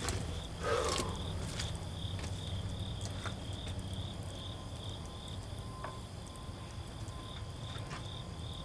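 Insects chirping outdoors in a steady, evenly pulsing high trill over a low background hum, with a few light handling clicks.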